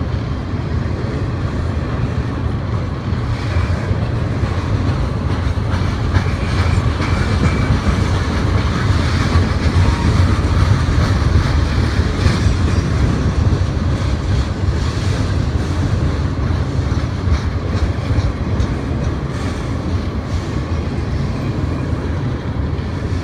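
Heavy freight train rolling past, a steady low rumble with wheels clicking over the rail joints.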